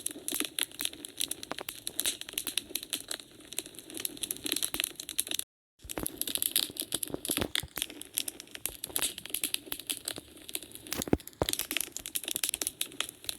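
Wood fire burning in a fireplace, crackling and popping with dense, irregular snaps over a faint steady hiss of the flames. The sound cuts out completely for a split second about five and a half seconds in, then the crackling resumes.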